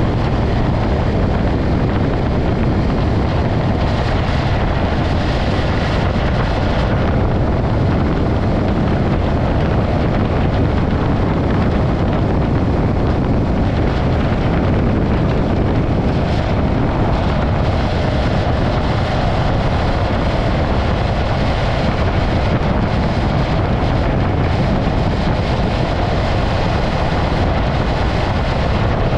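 Steady wind rush buffeting the microphone of a camera on a moving motorcycle, with the motorcycle's running and road noise beneath it.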